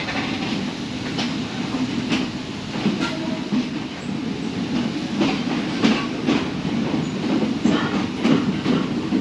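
Passenger train carriage running on the rails as it gets under way: a steady rumble with irregular clanks and knocks from the rattling carriage.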